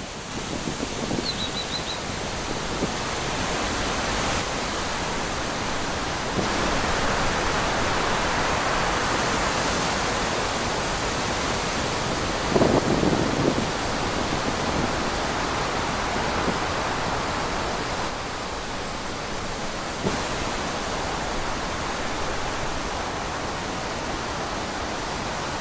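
Wind blowing through trees, a steady rushing that swells and eases in gusts, with a brief high chirp about a second in and a short low rumble about halfway through.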